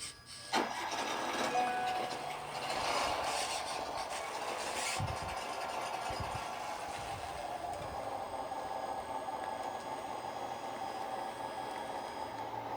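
A radio-controlled model construction machine's electric drive starts up about half a second in after a click, then runs steadily with a mechanical whirring.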